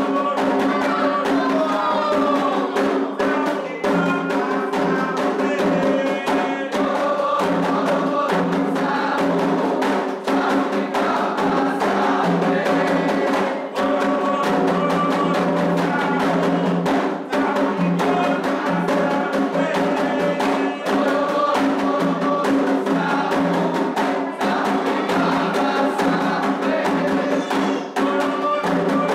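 Candomblé toque for Omolu: atabaque hand drums playing a fast, steady rhythm under continuous group singing.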